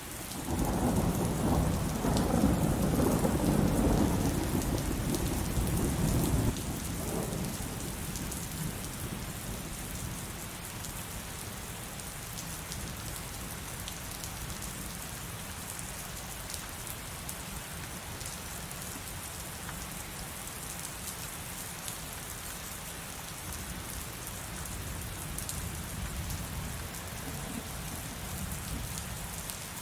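Heavy rain falling steadily, with a long, loud rumble of thunder over the first six seconds or so that drops away fairly suddenly. A fainter low rumble swells up again near the end.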